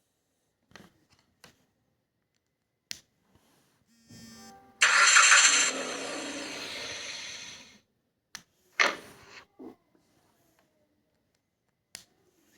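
Car-engine-starting sound effect used as an app alert: a short stretch of cranking, then the engine catches loudly about five seconds in, settles and cuts off a few seconds later. A few short clicks come before it, and brief knocks follow.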